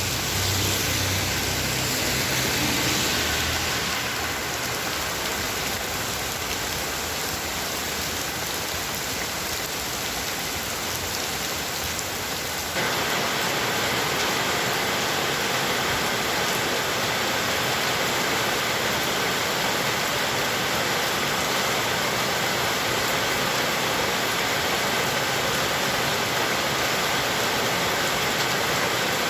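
Heavy rain falling steadily, a dense, even hiss. A low rumble sits under it for the first few seconds and then fades. About 13 seconds in, the rain abruptly steps louder and fuller.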